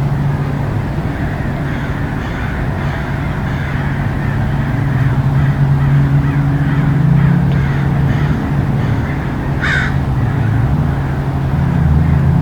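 A steady low hum runs throughout. About ten seconds in comes a single short caw, most like a crow's.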